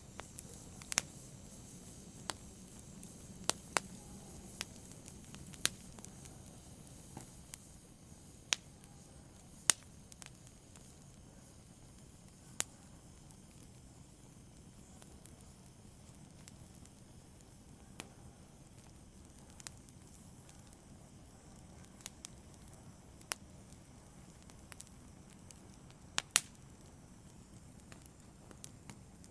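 Wood fire in a fireplace crackling: scattered sharp pops and snaps at irregular intervals over a low, steady hiss of burning.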